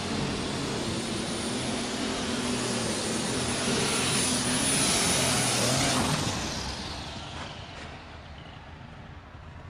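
Alcohol-burning super stock pulling tractor (John Deere 'Hulk Alcohol Edition') under full power during a pull, a dense engine noise with a high steady whistle on top, loudest about five seconds in. About six seconds in it drops away sharply as the engine is backed off.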